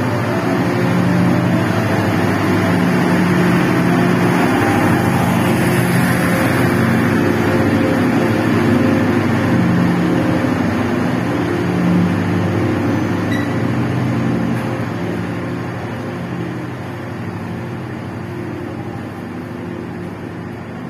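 Passenger train coaches rolling past along the platform: a steady rumble of wheels on rail with a low, steady hum underneath. It fades gradually over the last several seconds.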